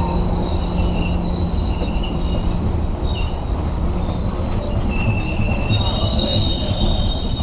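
Passenger train carriages rolling past on the rails with a steady low rumble, and high-pitched wheel squeals that come and go throughout.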